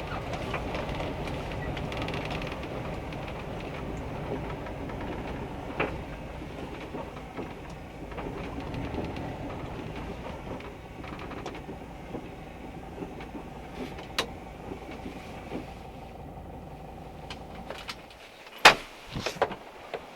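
Kombi camper van running, a steady engine and road rumble with light rattles. The rumble drops away near the end, followed by a few sharp clicks or knocks.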